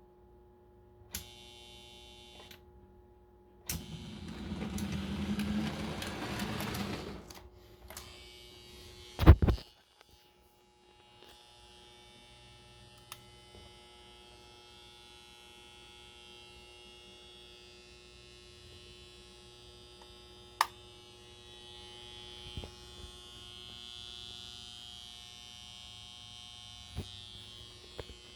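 Electric motor of a 700E Hudson model steam locomotive running with a steady buzzing hum, over the mains hum of its power supply. About four seconds in there is a few seconds of rushing noise, and just after nine seconds a single loud thump.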